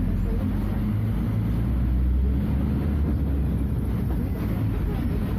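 Scania F250HB bus's DC09 five-cylinder diesel engine running steadily with a low drone.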